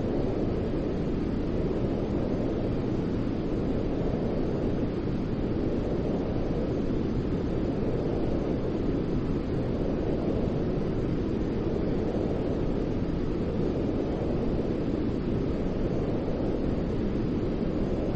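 Steady white noise for lulling a baby to sleep, deep and rumbling, with most of its weight low down and a faint slow rise and fall every few seconds.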